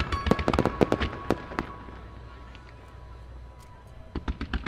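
Starmine firework shells bursting in a rapid string of sharp bangs, thinning out about two seconds in and picking up again near the end.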